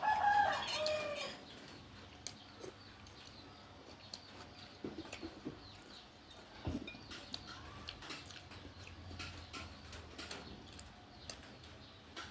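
A chicken squawks briefly right at the start, a pitched call that bends downward. Faint scattered clicks and taps follow.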